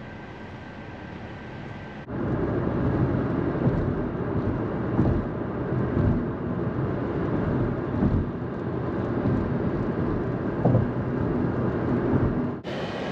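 Car driving: a steady low road rumble, cutting in suddenly about two seconds in after a quieter steady hum and cutting off just before the end.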